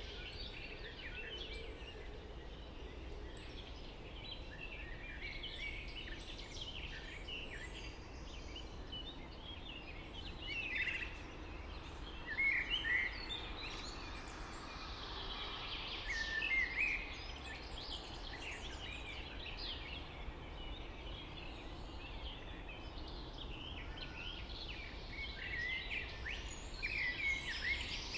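Several songbirds singing at once in a steady chorus of chirps and trills over a steady low background noise, with a few louder calls about 11, 13, 17 and 27 seconds in.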